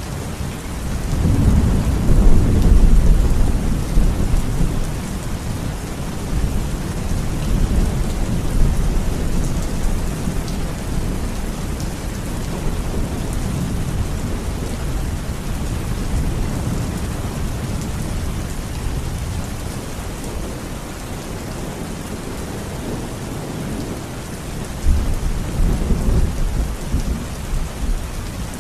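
Steady rain with low rumbles of thunder. The thunder swells about a second in and again near the end.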